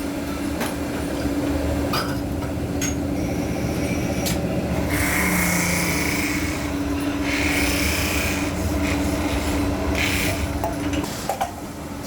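A metalworking machine running with a steady hum, with two bursts of rasping, scraping noise in the middle and scattered clicks and knocks. The hum cuts off about a second before the end.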